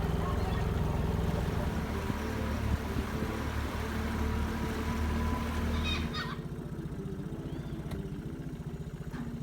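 Small engine idling steadily with an even pulse, dropping to a quieter idle about six seconds in.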